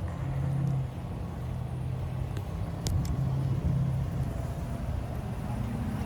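A vehicle engine running steadily at low speed, its low hum swelling and easing, with a single sharp click about three seconds in.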